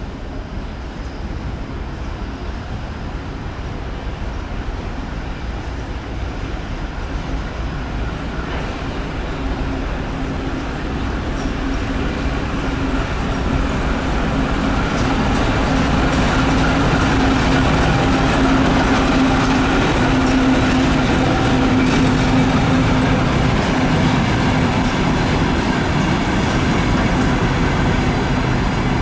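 ChME3 diesel shunting locomotive running with a maintenance train. Its engine drone, with a steady low tone, and the rail noise grow louder over the first half, then hold steady.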